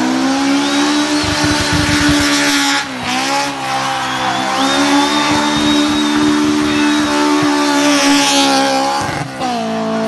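Rally car engine running hard at high revs, its pitch holding nearly steady and dipping briefly twice, about three and nine seconds in. A thin high squeal of the tyres runs over it through the middle.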